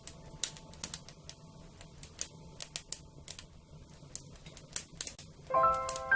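Wood fire crackling, with irregular sharp pops and snaps over a low steady rumble. Soft chime-like music notes come in near the end.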